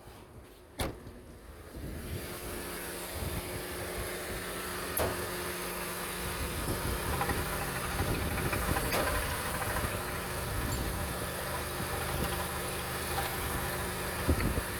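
Mercedes-Benz M271 1.8-litre supercharged four-cylinder petrol engine idling steadily. A sharp click comes about a second in, and the running sound grows a little louder about two seconds in, then holds even.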